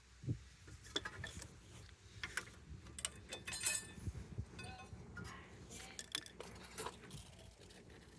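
Metal tools and parts clinking and knocking irregularly, with a few short metallic rings, as they are handled during a rear brake job.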